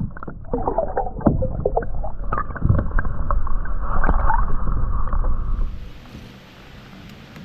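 Muffled water splashing and gurgling with scattered knocks against the kayak as a largemouth bass is released back into the lake. About six seconds in it gives way to a steady, quieter wind hiss.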